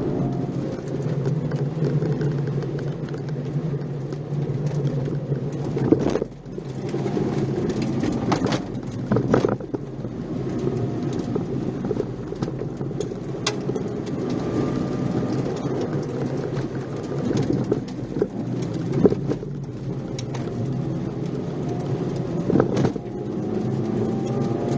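Nissan March 12SR's 1.2-litre four-cylinder engine running under load, heard from inside the car, the revs rising and falling as it is driven through the bends. A few sharp knocks cut through along the way.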